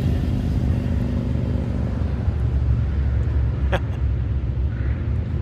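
Motorcycles riding past on the canyon road, a steady low engine rumble throughout, with a short sharp chirp or click a little before four seconds in.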